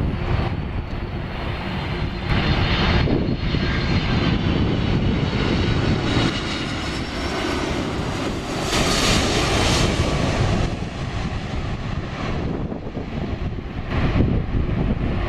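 Boeing 747 airliner's jet engines on landing: a loud, continuous rushing roar with a steady hum underneath, swelling and brightening about nine seconds in before easing off.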